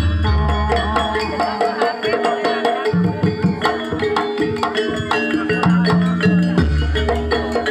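Javanese gamelan music accompanying a dance: hand-drum strokes over ringing metallophone notes, with deep low notes coming and going.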